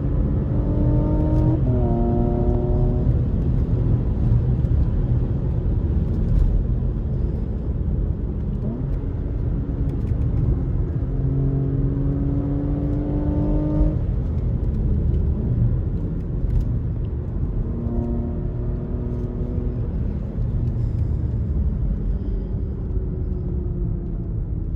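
Porsche Macan GTS twin-turbo V6 pulling hard through the gears, its pitch climbing and then dropping sharply at an upshift about a second and a half in. It climbs again in a long pull near the middle and eases off toward the end, over constant road and wind rumble.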